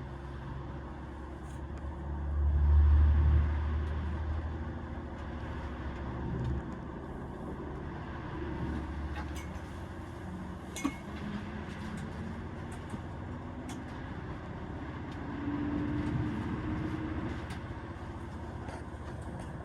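Inside a Class 220 Voyager diesel train on the move: the steady rumble of its underfloor Cummins diesel engines and running gear, with a heavy low swell a couple of seconds in and engine notes that shift in pitch. There is a single sharp click about eleven seconds in.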